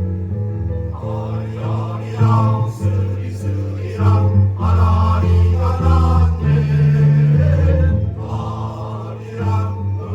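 Choir singing with instrumental accompaniment, the voices entering about a second in over sustained low notes.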